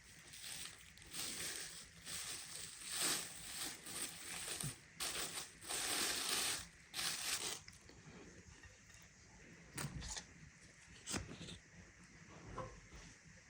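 Bursts of dry crinkling and crushing for about eight seconds, then a few sharp clicks in a quieter stretch.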